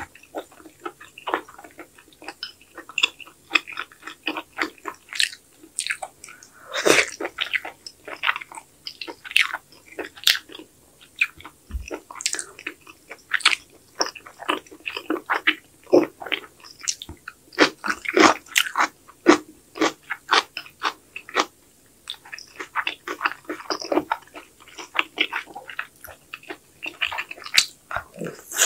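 A person chewing mouthfuls of kimchi sujebi (hand-torn wheat dough in spicy kimchi broth) dipped in soy-sauce seasoning: a steady, irregular run of short chewing and mouth clicks.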